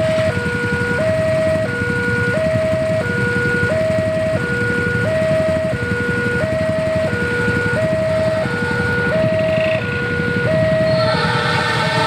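Railway level-crossing warning alarm sounding: an electronic two-tone signal that alternates between a low and a high note about every two-thirds of a second, over a steady low rumble. Near the end the alarm stops and an approaching train's horn begins.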